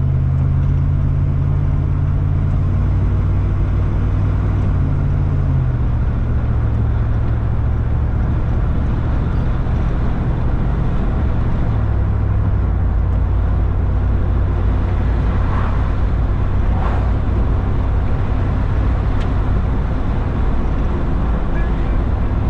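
Steady low drone of a road vehicle's engine and road noise while driving. The drone steps down in pitch about six seconds in and shifts again about twelve seconds in.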